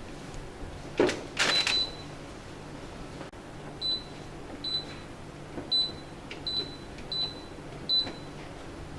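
Whirlpool top-loading washing machine's control-panel buzzer sounding six short high beeps in the second half, a little under a second apart. They are preceded by a sharp click and a brief clatter with a beep.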